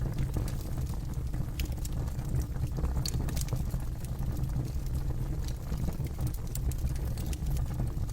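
Campfire burning with a steady low rumble of flames and irregular sharp crackles and pops from the burning wood.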